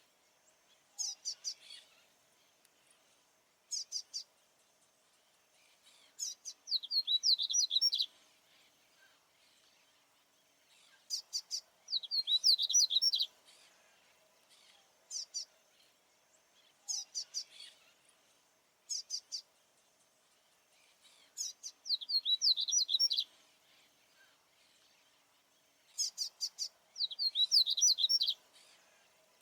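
Male papa-capim baianinho seedeater singing repeatedly, in full territorial song. Short high phrases alternate with longer, louder runs of rapid notes, one about every five seconds.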